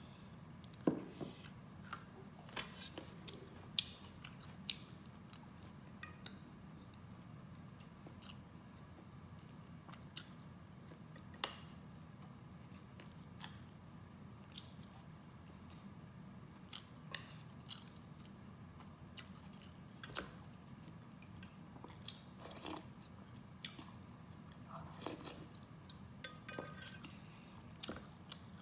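A person eating close to the microphone: chewing and wet mouth sounds, broken by many short sharp clicks and crunches, over a steady low hum.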